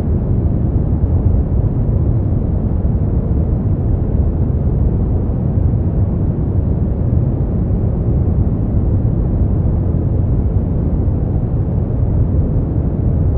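Continuous sleep-aid white noise, dark and muffled rather than hissy: most of its weight sits in the low end and there are no highs. It holds perfectly steady, with no changes or events.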